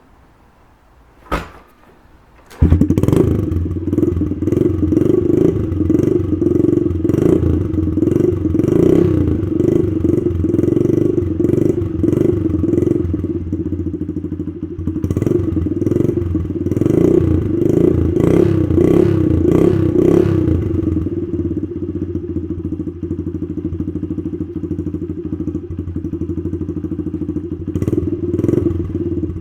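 Honda CRF70F's small four-stroke single-cylinder engine, fitted with a power tip exhaust, starting after a single knock and catching about two and a half seconds in. It is blipped up and down repeatedly, then settles to a steady idle about two-thirds of the way through.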